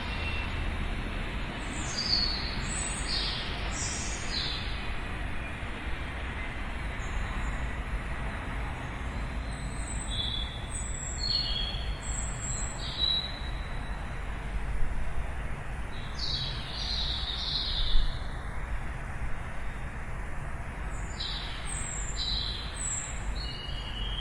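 Small birds chirping in short high notes, in scattered clusters, over a steady low rumble of distant city traffic.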